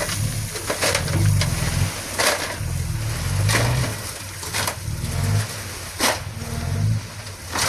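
Furukawa D20P crawler bulldozer's diesel engine running under changing load, with about five sharp clanks and crunches as it works the gravel.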